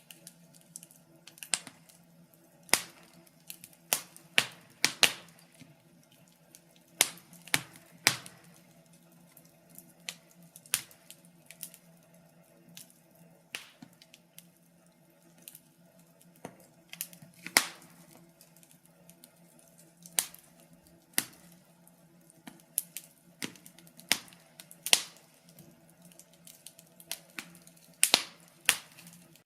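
Wood fire in a fireplace crackling, with irregular sharp pops and snaps, a few of them much louder than the rest. A faint steady low hum runs beneath.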